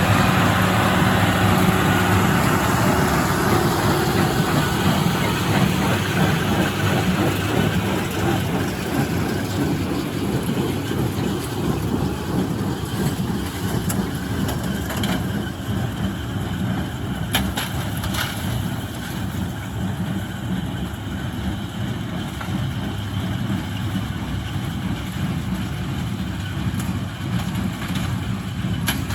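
International Harvester 886 tractor's six-cylinder diesel engine running steadily while baling hay with a John Deere 348 square baler. The sound grows a little quieter over the first ten seconds or so, with a few sharp clicks or knocks around the middle and near the end.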